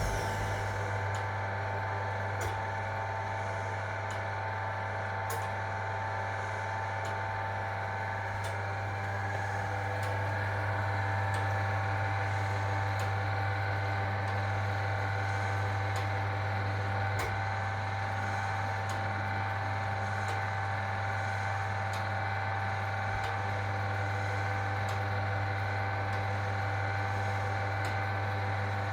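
1961 AEG Lavamat Noris washing machine running with a steady low motor hum and faint, irregular ticks every second or two.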